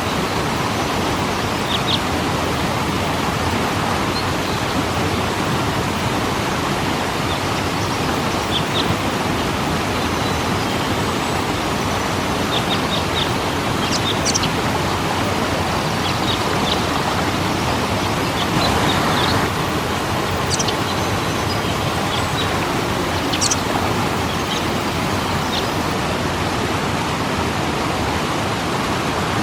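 Waterfall rushing in a steady, even roar of falling water, with short high bird chirps scattered through it.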